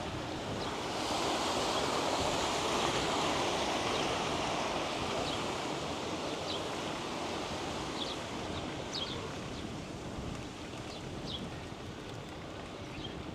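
Steady wind and rolling noise of a bicycle ride, swelling for a few seconds about a second in and then easing, with faint short high chirps scattered through it.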